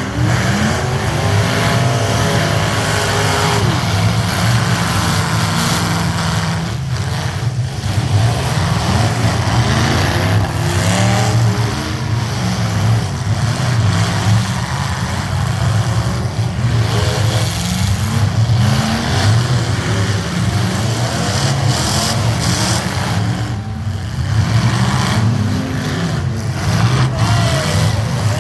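Trucks driving past one after another, their engines running with a steady low drone. The engine pitch rises and falls several times as vehicles go by.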